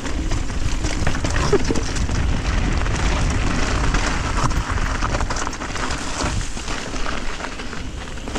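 Wind rumbling steadily on the microphone during a thunderstorm, with a scatter of small clicks and rattles over it.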